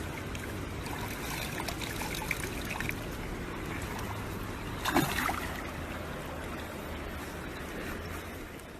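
Water running steadily, with a low hum beneath it and one short, louder noise about five seconds in.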